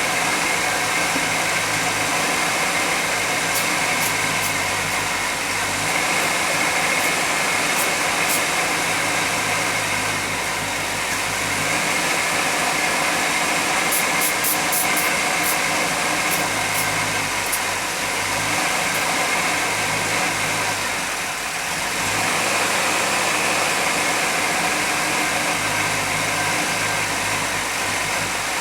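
1991 GMC Jimmy engine idling steadily, with a constant hiss and a thin steady whine over it; the engine is thought to have a vacuum leak.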